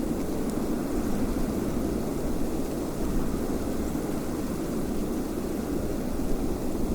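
Steady wind, a low, even rush with no separate gusts standing out.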